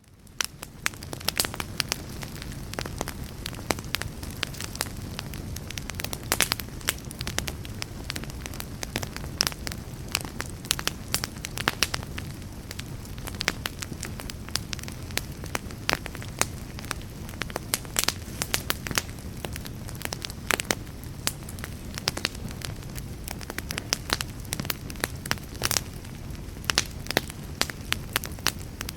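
Fire crackling and popping, with dense irregular snaps over a steady low rumble of the flames. It fades in from a brief dip at the start.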